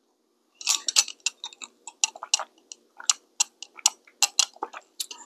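Close-up chewing and mouth sounds: a quick, irregular run of sharp clicks and smacks, about a second in and on to near the end.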